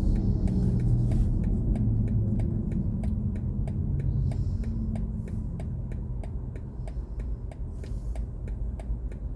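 Low road rumble inside an electric car's cabin, fading as the car slows, with a turn-signal indicator ticking steadily about three times a second.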